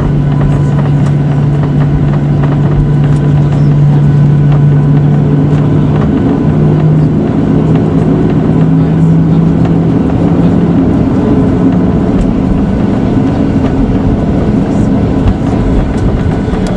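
Jet airliner engines heard from inside the passenger cabin: a loud steady hum under a dense rush of noise, its pitch stepping up slightly a few times.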